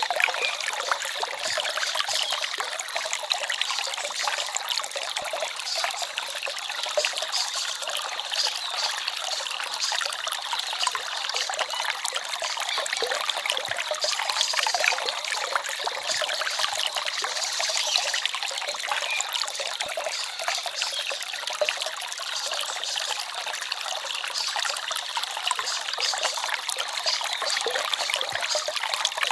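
Small forest stream trickling and babbling steadily, a constant rush of water with no breaks.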